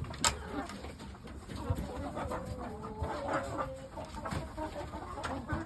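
Chickens clucking softly, with a single sharp click about a quarter of a second in.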